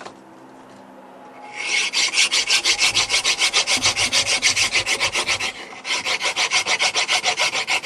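Hand file rasping in fast, even back-and-forth strokes on the edge of a natural stone tile, filing out a switch-plate opening. The strokes start about a second and a half in and stop briefly a little past the middle before going on.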